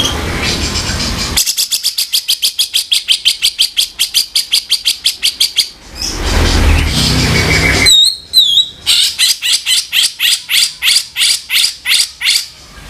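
Cucak jenggot (grey-cheeked bulbul) giving its harsh calls: a fast run of repeated rough notes, about seven a second, then two short whistled notes and another slower run of rough notes.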